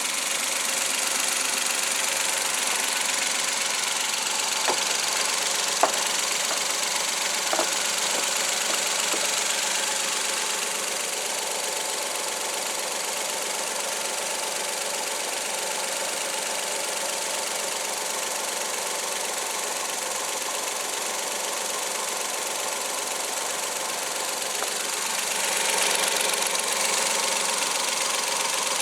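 Suzuki K6A 658 cc three-cylinder engine running steadily at idle, with a few sharp clicks about five to eight seconds in and a brief swell in level near the end.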